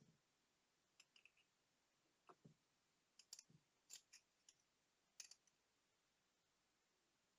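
Faint, scattered small clicks and light taps, about a dozen between one and five and a half seconds in, a few with a duller knock: small tools and tiny parts being handled while the digital watch is worked on.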